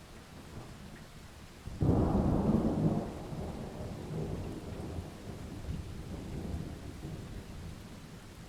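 Steady rain, with a sudden clap of thunder nearly two seconds in that is loudest for about a second and then rumbles on, slowly fading.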